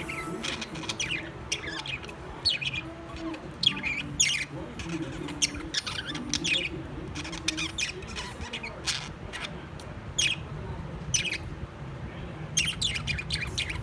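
Birds calling: a string of short, shrill squawks and chirps, repeated at irregular intervals.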